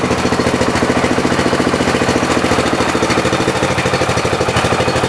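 Riding lawn mower engine running at low speed with an even firing beat, close to stalling.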